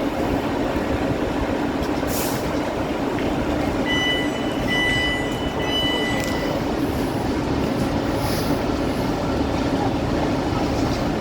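A train running on the line, a steady rumble with a low hum. About four seconds in there is a brief high-pitched squeal in two steady notes, lasting two to three seconds.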